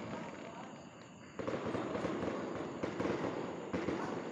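Fireworks going off: the echoing tail of a bang fades at first, then about a second and a half in a dense run of crackling pops starts and keeps going.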